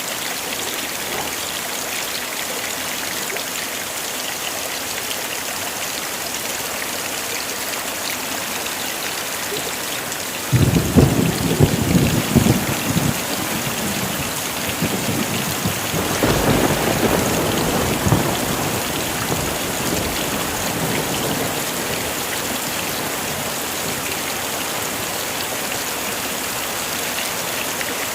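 Heavy rain falling steadily. About ten seconds in, thunder breaks in suddenly with a low crackling rumble, swells again a few seconds later, then fades out under the rain.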